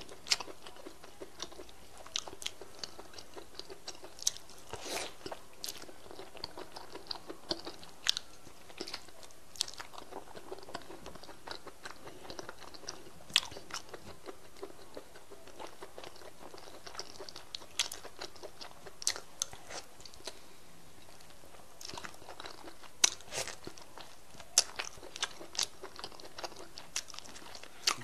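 Close-miked eating: irregular biting, chewing and sharp crunches, with wet mouth clicks, as pieces of meat from okra soup are eaten.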